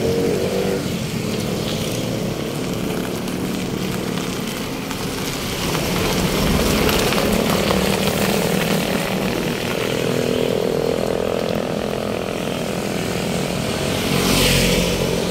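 Road traffic with vehicle engines running steadily close by, one engine's pitch rising a little partway through, and a short hiss near the end.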